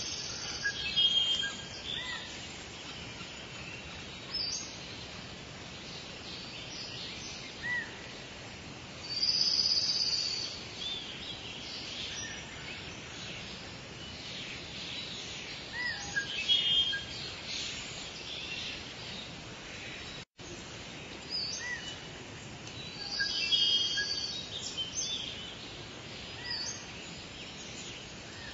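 Birds calling in short high-pitched chirps and phrases every few seconds, over a steady background hiss.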